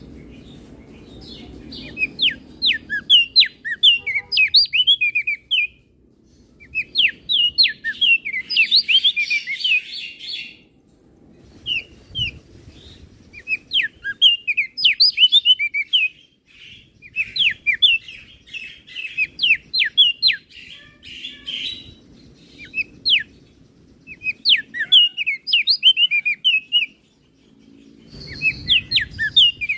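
Opior jambul (crested dark-eye) from Flores singing a loud, varied song: repeated phrases of fast chirps and quick up-and-down whistled sweeps, each a few seconds long, with short pauses between them.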